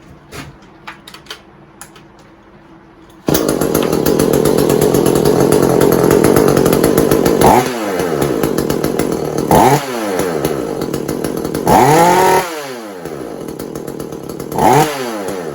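Echo CS-400 40cc two-stroke chainsaw running at high revs, then blipped off and on the throttle several times, each time dropping and climbing quickly back up, before settling lower with one more quick rev near the end. The acceleration is decent after tuning within the limiter caps, but the owner suspects the congested EPA muffler is still holding the saw back.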